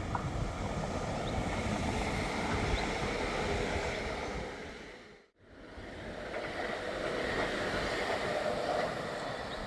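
A train running past with a steady rushing rumble. The sound fades to silence about five seconds in and fades straight back up.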